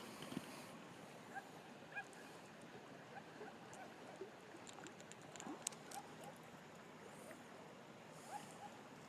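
Faint, scattered short bird calls over a low outdoor hiss, with a few light clicks about halfway through.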